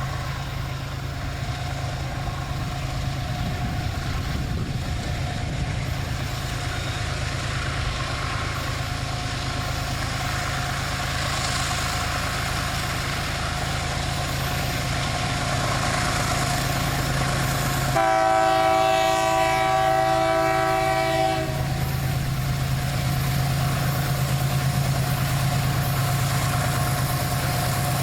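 Diesel locomotive running steadily, with its horn sounding once, a single long blast of about three and a half seconds past the middle.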